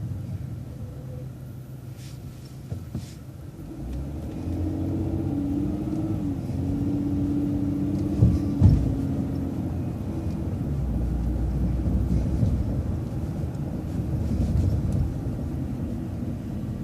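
Transit bus running, heard from inside the bus: a low engine rumble that grows louder about four seconds in as it gets under way, with a wavering whine for several seconds. Two sharp knocks a little past the middle are the loudest sounds.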